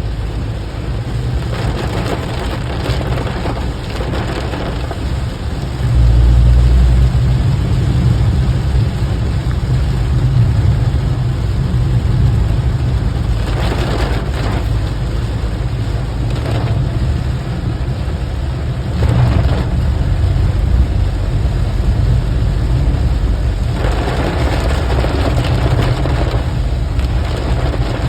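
Rain with a car's steady low road rumble underneath. The hiss of the rain swells in several short surges, and the rumble grows louder about six seconds in.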